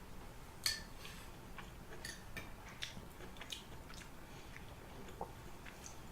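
Someone chewing a mouthful of chicken and rice soup close to the microphone: scattered soft, wet mouth clicks, the sharpest about half a second in.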